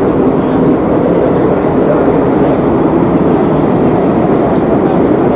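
Madrid Metro series 8000 train running between stations, heard from inside the car: a steady, loud rumble of wheels and motors in the tunnel.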